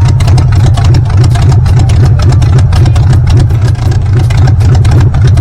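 Hot rod engine idling loudly with a deep, steady rumble.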